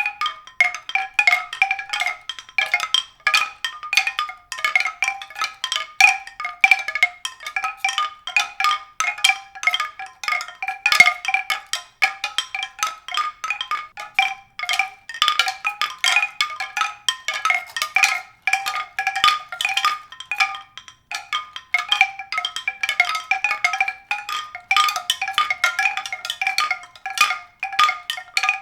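Rapid, continuous run of struck, ringing tuned notes, like mallet percussion, that keeps going without a break.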